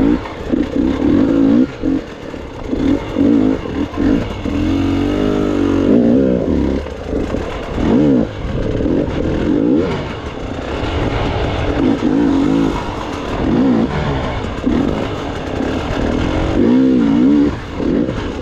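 Gas Gas EX 300 two-stroke enduro motorcycle engine revving in repeated short throttle bursts, its pitch rising and falling again and again as the bike crawls through technical terrain.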